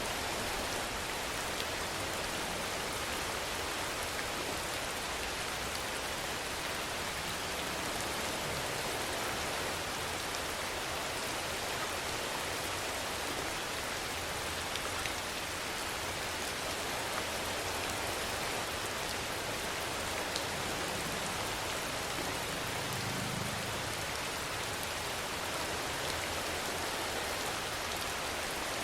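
Steady rainfall: an even hiss with scattered drop ticks, unchanging throughout.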